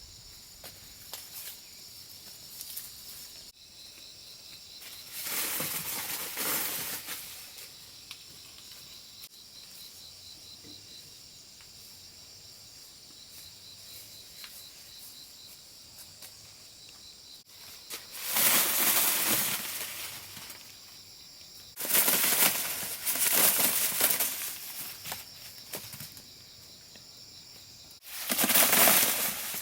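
Four bouts of loud rustling of dry foliage, each lasting one to two seconds, over a steady chirring of insects.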